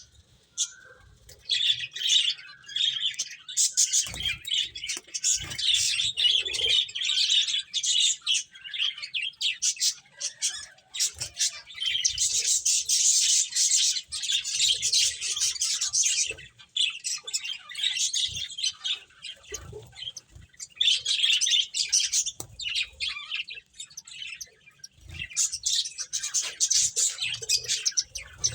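A group of pet finches chirping: many quick, high calls in bouts of several seconds, with brief pauses between them.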